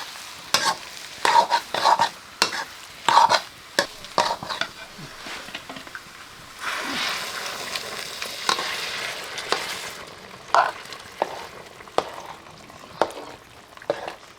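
A spoon stirring and scraping curry in a cooking pot, in a run of quick strokes, with a spell of sizzling from about seven to ten seconds in.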